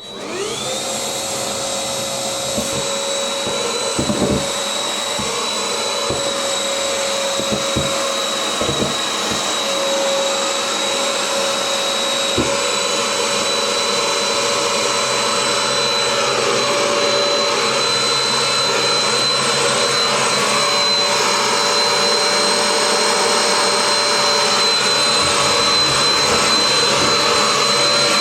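A Bush vacuum cleaner is switched on, its motor spinning up into a steady high whine as it sucks thick fluff and lint out of a tumble dryer. There are a few short knocks in the first half.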